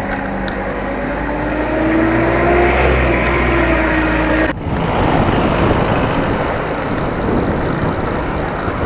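Motor vehicle engine running close by with its pitch slowly rising as it accelerates, over a heavy low rumble. About four and a half seconds in it cuts off suddenly and gives way to a steady rushing noise.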